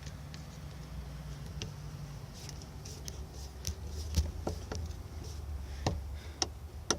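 Hand tool working bolts down on a truck engine: scattered light metallic clicks and taps, irregularly spaced, over a low steady hum.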